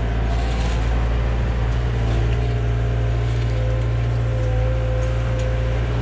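Diesel engine of heavy equipment running steadily under load, a deep continuous drone with a faint higher whine over it.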